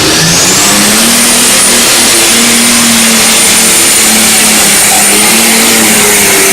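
Pulling tractor's Cummins diesel engine at full throttle, dragging the weight sled down the track. A high whine rises over the first second and a half and then holds steady above the loud, even engine note.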